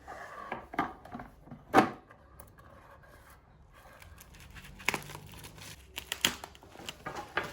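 Hands handling crinkly packaging, rustling and tearing, with several sharp knocks; the loudest knock comes a little under two seconds in.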